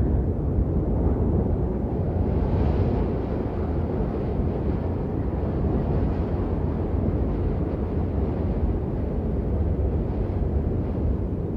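Steady, dense rain noise, a deep, even rush weighted toward the low end, with no breaks or separate drops standing out.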